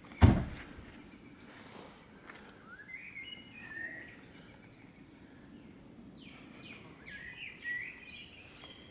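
A single sharp thump just after the start, then small birds chirping, with a run of quick falling chirps near the end.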